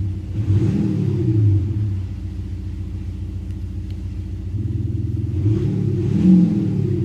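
Simulated exhaust rumble from a speaker-based virtual exhaust system on an Audi S5, idling with a revving swell about a second in and another near six seconds.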